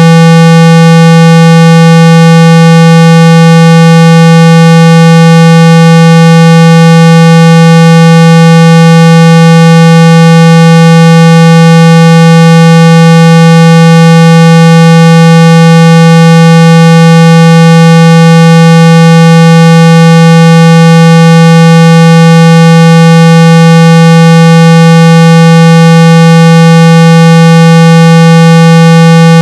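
A steady, very loud 165 Hz test tone with a buzzy edge and no change in pitch or level. It is the kind of tone played through a phone speaker to vibrate water and dust out of the speaker grille.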